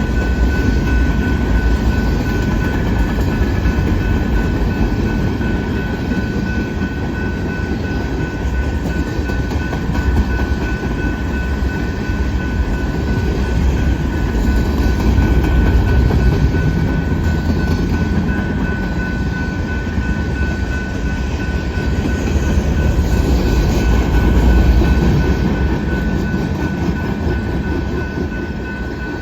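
Freight train cars rolling past, a steady rumble of steel wheels on rail with a thin, constant ringing tone over it. The noise swells twice and eases off near the end.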